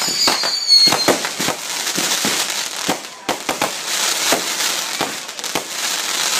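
Consumer fireworks going off in quick succession: a string of sharp bangs and crackles over a steady hiss, with high whistles falling slightly in pitch during the first second.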